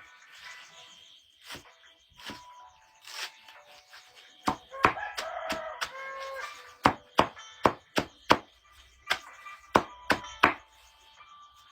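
Irregular chopping strikes from a blade, a dozen or so sharp knocks that come faster in the second half. Soft music with held notes runs underneath.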